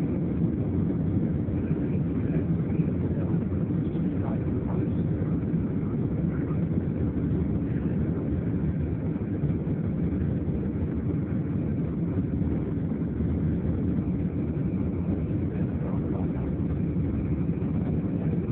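Steady low rumble of an EasyJet Airbus jet airliner's engines and airflow as heard from inside the cabin during takeoff.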